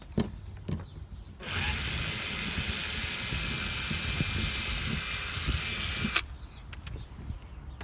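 A power drill runs steadily for about four and a half seconds and then stops abruptly. Just before it, there are a couple of light knocks.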